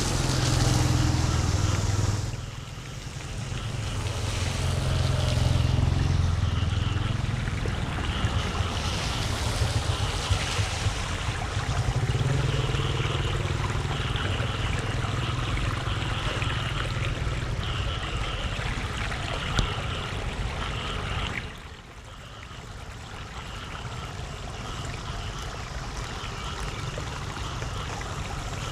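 Floodwater moving and splashing, with wind rumbling on the microphone; the rumble swells and fades and drops off briefly twice.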